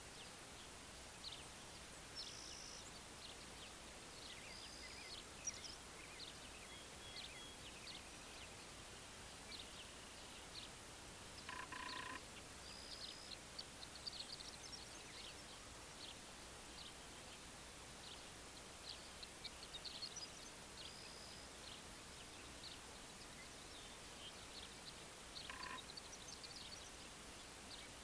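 Faint birds chirping in open countryside at dawn, with many short high chirps over a steady background hiss. Twice, about halfway through and again near the end, a louder, lower call stands out.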